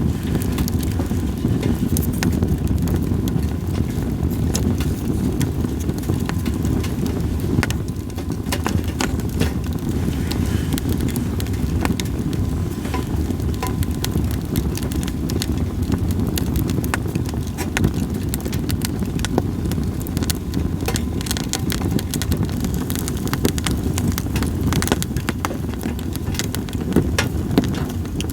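Campfire of split sawtooth oak (kunugi) firewood crackling, with many sharp pops scattered throughout over a steady low rushing noise.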